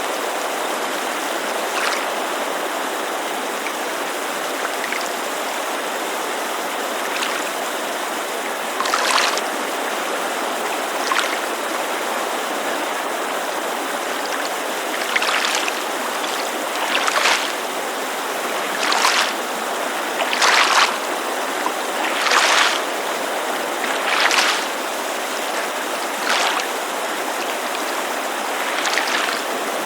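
Steady rushing of a mountain creek, with small waves lapping at a lakeshore in brief splashes. The splashes are scattered at first and come about every two seconds through the middle of the stretch.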